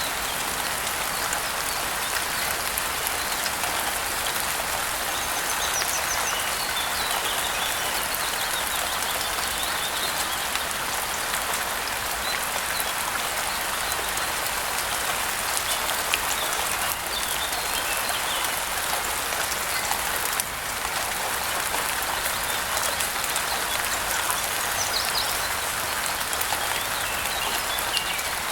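Steady rain with a dense pattering of drops, and faint bird chirps now and then, about six seconds in and again near the end.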